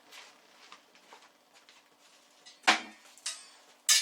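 Metal antenna parts handled on a bench: faint rustling, then a knock about two-thirds of the way in and a sharp metallic clink with a short ring near the end.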